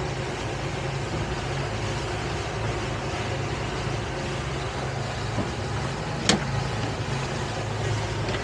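Towboat's engine running steadily under way with a boat in tow, a low even hum under a rushing haze. A single sharp click about six seconds in.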